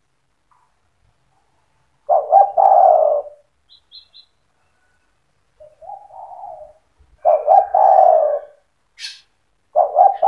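Spotted dove (tekukur) singing its cooing song. It repeats a phrase of a few short notes that run into a longer rolling coo, about every five seconds, with a softer coo in between. Faint brief high chirps come about four seconds in.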